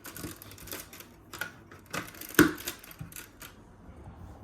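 Plastic LEGO pieces clicking and rattling as they are handled and pressed together: a run of irregular clicks, with one sharper snap about two and a half seconds in.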